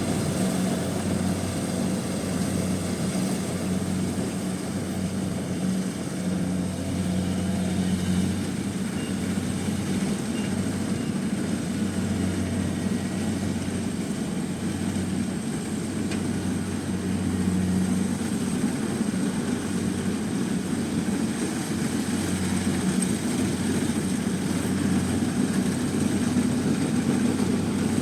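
Combine harvester engine running steadily under load, a constant low hum with a mechanical clatter over it.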